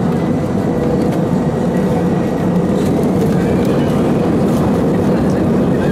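Steady, loud rumble of an Airbus A319-112's CFM56 jet engines and airflow, heard inside the passenger cabin, with a faint steady whine over it.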